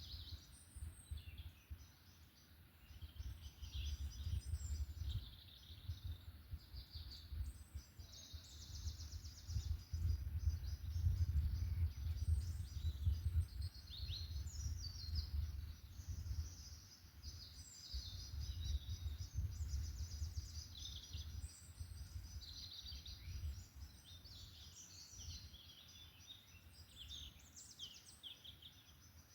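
Several songbirds singing and chirping together in a forest chorus, many short high calls and quick downward sweeps overlapping throughout. Underneath runs a low rumble that swells and fades in slow waves, loudest in the middle.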